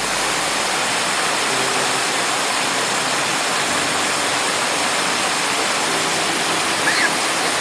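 Steady rush of water from a cascading waterfall.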